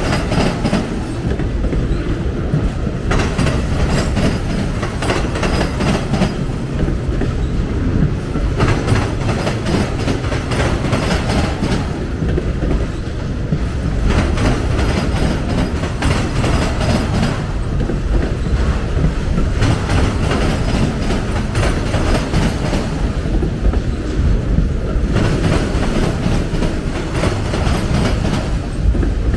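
Freight train of auto rack cars rolling slowly past: steel wheels clattering over the rail joints over a steady rumble. The clatter swells and eases in a cycle of every five or six seconds.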